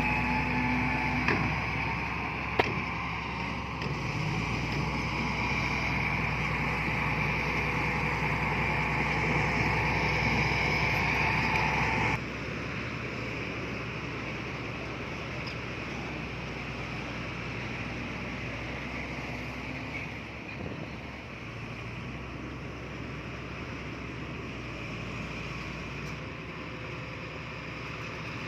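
Heavy diesel earthmoving machinery running steadily, with a few sharp knocks in the first few seconds. The sound drops abruptly to a quieter steady engine drone about twelve seconds in.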